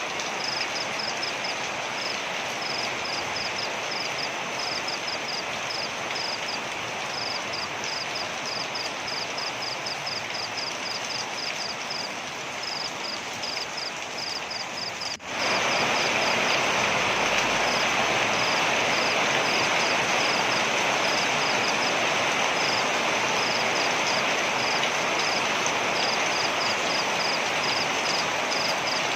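Waterfall rushing steadily, with a rapid, high-pitched chirping call repeating throughout. About halfway through the sound cuts abruptly and comes back louder and fuller.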